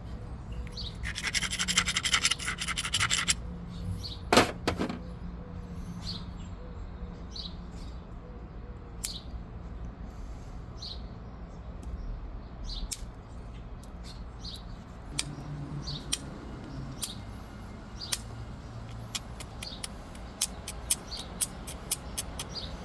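Obsidian being flintknapped by percussion: a burst of rapid scraping clicks for about two seconds, then one loud sharp strike about four seconds in, followed by scattered light ticks and taps against the stone.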